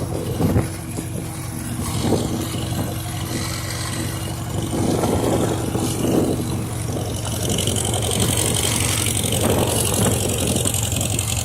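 1951 Farmall H tractor's four-cylinder gasoline engine running steadily under way, heard from the driver's seat, with a few louder swells of noise over it.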